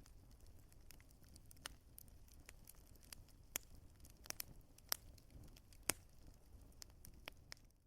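Wood fire crackling: scattered sharp pops at irregular intervals over a faint low rumble, cutting out abruptly at the very end.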